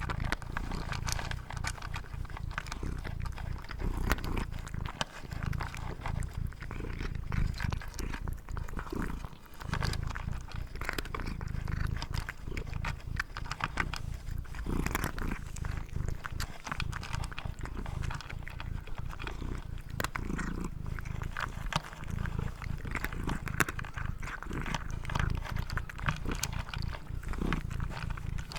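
An animal eating: rapid, dense chewing and crunching clicks over a steady low rumble.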